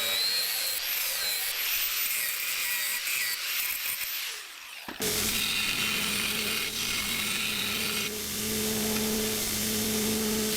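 A power tool working steel: a high whine that rises and falls in pitch. Near the middle it cuts off abruptly and is followed by a steadier run with a low motor hum.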